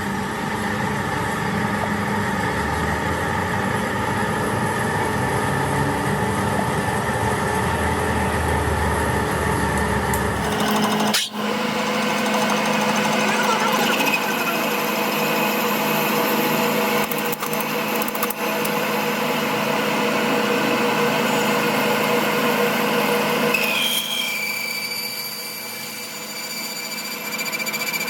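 Workshop machinery running steadily with a mechanical hum and whine, changing abruptly about eleven seconds in and again near the end.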